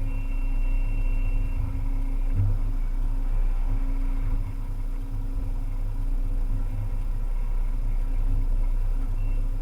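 Volvo EC300E excavator's diesel engine running steadily, with a brief high whine in the first second and a half and a low thud about two and a half seconds in.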